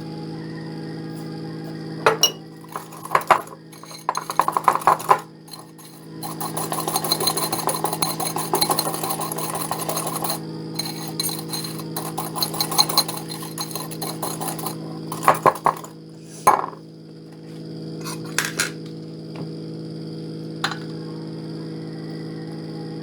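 Metal utensils clinking against dishes: a few separate clinks, then a long run of fast, steady clinking for several seconds, and a few more clinks near the end. A steady low hum runs underneath.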